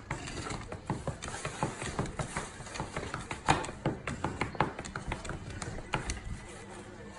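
Foam takeout container being opened and handled: a run of irregular small clicks and crackles.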